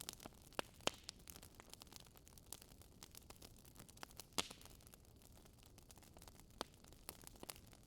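Wood fire in a fireplace crackling: irregular quick snaps and ticks, with a few louder pops, over a faint hiss.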